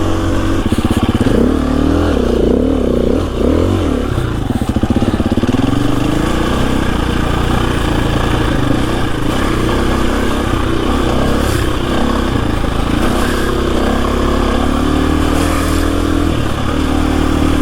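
KTM 350 EXC-F single-cylinder four-stroke dirt bike engine under riding load. In the first few seconds it revs up and down several times with the throttle, then runs steadier with small changes in revs.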